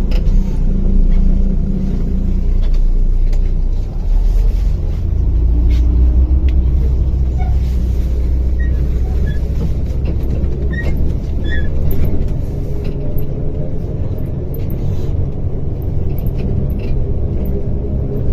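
Simulated MAZ-105 articulated city bus running under way, its diesel engine note rising and falling with speed, with scattered small clicks and rattles.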